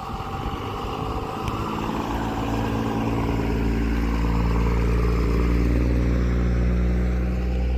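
Truck engine drawing near and running close by: a low, steady drone that grows louder over the first few seconds and eases slightly near the end.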